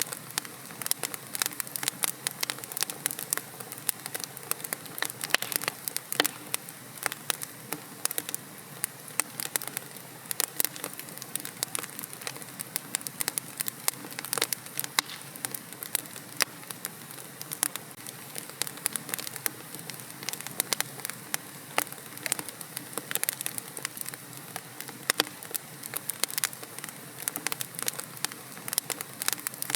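Wood fire crackling in a fireplace: a constant stream of sharp pops and crackles, a few of them louder, over a soft steady hiss.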